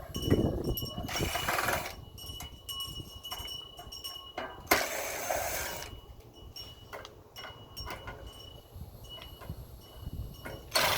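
Tools working on a small portable generator as its heat-shield screws are taken out: scattered clicks and clinks, with two short bursts of noise, about a second in and about five seconds in, the second starting with a sharp click.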